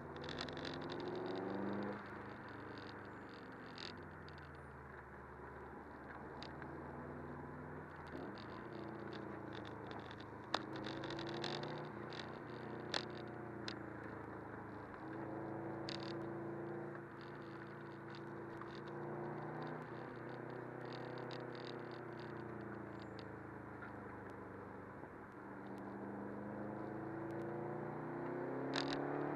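Subaru WRX's turbocharged flat-four engine heard from inside the cabin, its pitch rising and falling as the car accelerates and eases off through bends, over steady road and tyre noise. There are two sharp clicks midway, and the engine climbs again near the end.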